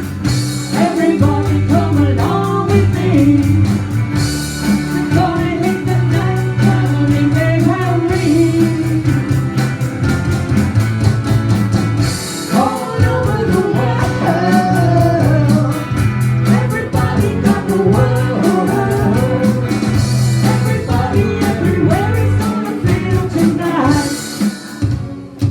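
A band playing a rock-style song with singing, guitar, bass and drums keeping a steady beat, with cymbal crashes every few seconds. The song ends just before the end.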